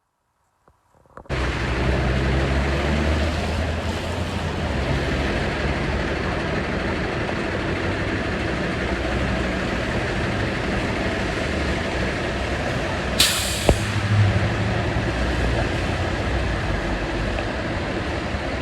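Semi-truck diesel engine running steadily with a deep low drone, cutting in suddenly after about a second of silence. About thirteen seconds in, a short sharp air hiss from the air brakes.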